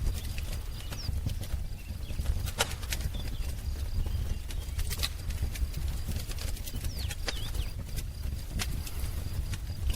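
Wood fire crackling, with irregular sharp pops and snaps over a low, steady rumble. A few faint bird chirps come through, about a second in and again about seven seconds in.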